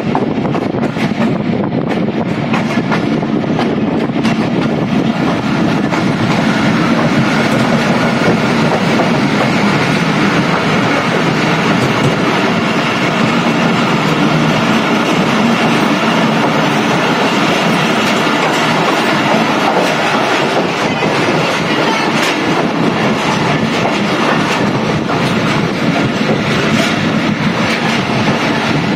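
Passenger train running steadily, its coach wheels clattering over the rail joints, heard from an open coach doorway with the rush of passing air.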